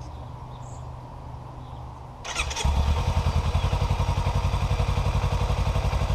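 A 2017 Kawasaki Ninja 300's parallel-twin engine is started about two seconds in: a brief crank, then it catches and settles into a steady, quick-pulsing idle. It is being run after an oil change, with a new filter and only part of the oil added, to fill the filter and check for leaks. Before the start there is a low steady hum.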